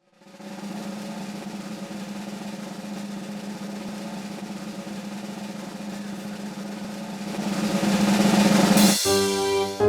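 Snare drum roll, steady at first and then swelling louder over the last couple of seconds, ending in a bright crash as a tune with pitched notes begins.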